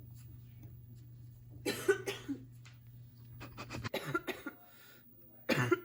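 A person coughing in short, harsh fits: about two seconds in, again around four seconds, and once more near the end. A steady low hum underneath stops about four seconds in.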